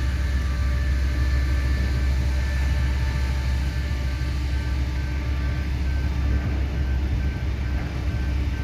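Empty sugar hopper wagons rolling past, a steady rumble of steel wheels on rail. Faint high ringing tones run through it, one pulsing on and off in the second half.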